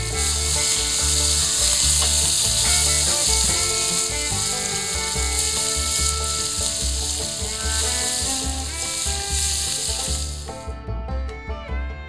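Food frying on a cast iron dutch oven lid: a loud, steady sizzle that cuts off suddenly near the end, leaving only fiddle music with a steady beat, which also plays underneath the sizzle.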